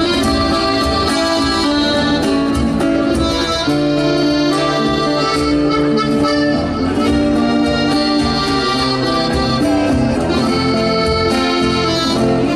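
Instrumental break of a chamamé, with accordion carrying the melody over a guitar accompaniment.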